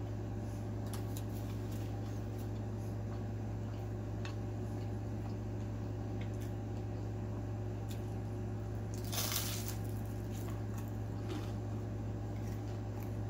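Close-miked chewing of fried food, with soft wet mouth sounds and small clicks. About nine seconds in there is one louder, noisier crunch. A steady low hum runs underneath.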